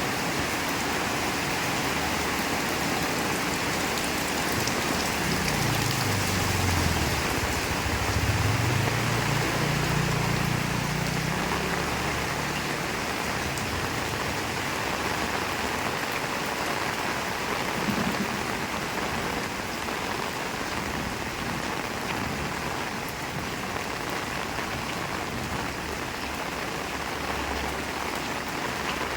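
Heavy rain falling steadily. Roughly five to twelve seconds in, a passing vehicle's low engine sound dips and then rises in pitch, and then fades back under the rain.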